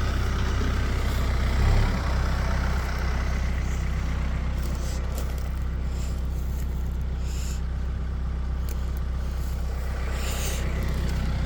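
A vehicle engine idling steadily, with a brief swell in level about two seconds in.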